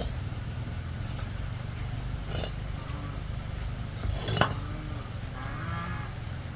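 Short, arching calls from farm animals over a steady low hum, with two sharp knocks, the louder one near the middle.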